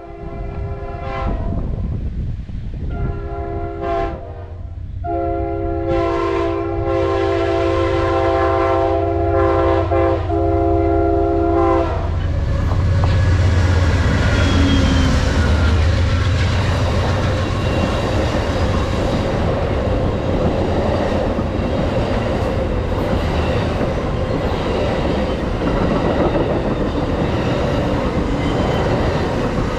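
Horn of an Amtrak Auto Train's GE P40DC diesel locomotives sounding three blasts: two short ones, then one held about seven seconds. The locomotives then pass close by with a heavy diesel rumble, followed by the steady roar and wheel clatter of the long train rolling past.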